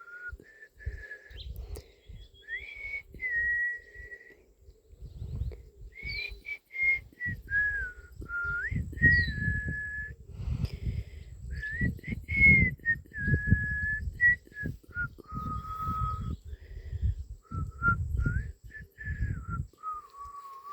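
A person whistling a slow tune of held notes joined by short slides, falling to lower notes near the end. Irregular bursts of low rumble run underneath.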